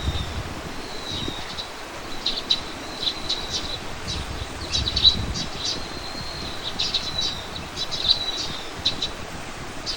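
Songbirds chirping: many short high chirps and thin, high, drawn-out whistled notes, repeated all through, over a faint low rumble.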